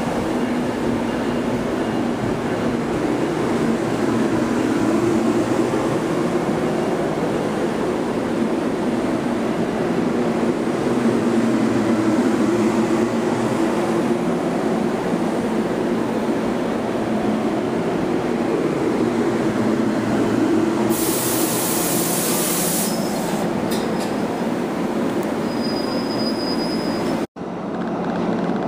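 NJ Transit single-level passenger coaches rolling past close by: a steady rumble and clatter of wheels on rail. About two-thirds of the way through comes a loud high hiss for a couple of seconds, then a short high squeal. The sound cuts off abruptly near the end.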